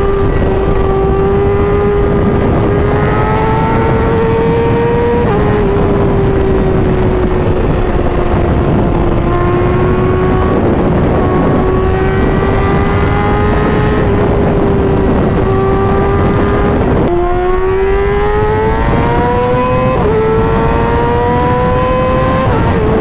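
Inline-four sport bike engine running at high revs at highway speed. Its pitch creeps up and holds, then drops suddenly at quick upshifts, once about five seconds in and three times in the last six seconds. Steady wind and road rush run underneath.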